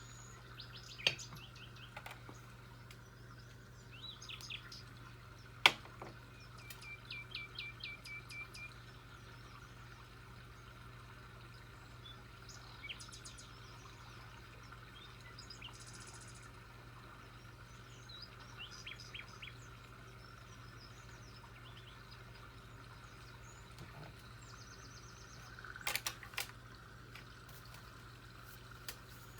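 Small birds chirping in short rapid series of notes over a steady low hum. A few sharp taps stand out: one about a second in, a louder one near six seconds, and a cluster near the end.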